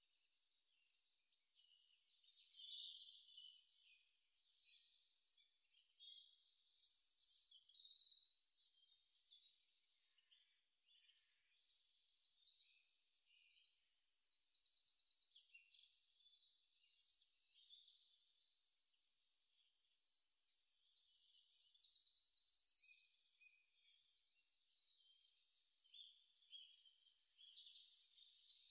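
Birds chirping and trilling in overlapping bursts of a few seconds, thin and high with nothing lower underneath.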